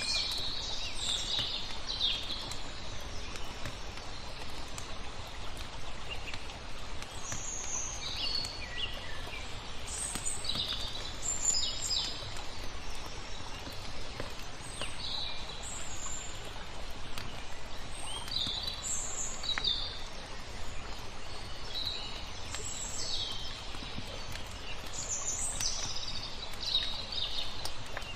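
Small birds chirping in short phrases every second or two over a steady hiss of flowing water, with faint crackles from a wood fire.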